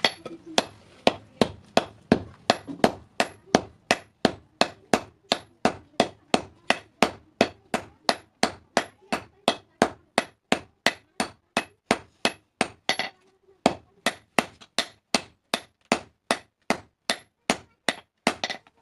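Blacksmith's hammer striking a hasua blade on the anvil in a steady rhythm of close to three blows a second, each blow ringing briefly, with a short pause about thirteen seconds in.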